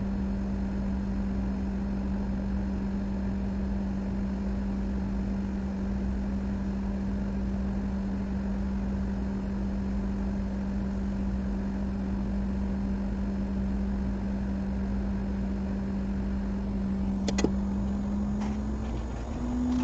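Steady hum of a small electric motor or fan, with a sharp click near the end and a slight rise in the hum's pitch just after it.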